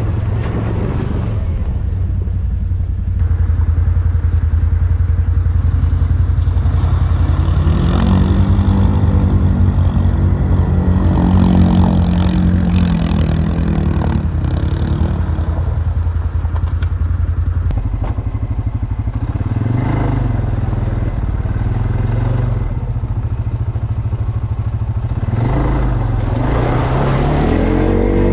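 ATV engine running under way, its revs rising and falling several times as it is throttled, with light rattling.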